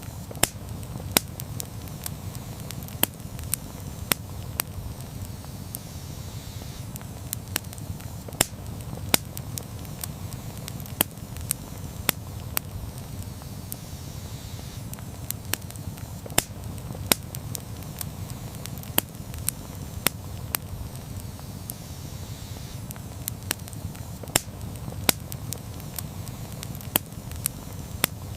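Wood campfire crackling: irregular sharp pops and snaps, several a second at times, over a low steady rumble of burning.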